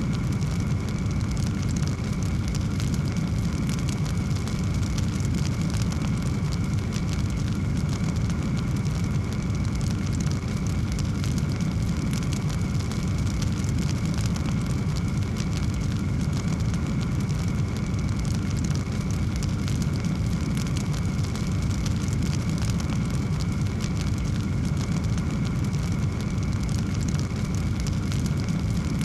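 Wood fire burning in a fireplace: a steady low rumble of flames with dense, small crackles throughout.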